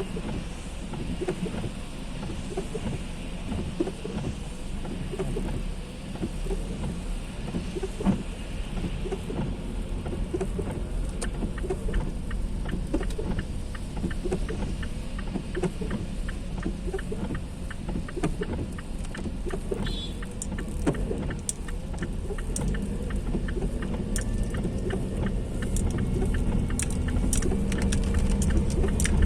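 Heavy rain hitting a car, over the steady low rumble of the car's engine and road noise. The drop ticks grow denser and the sound gets louder toward the end.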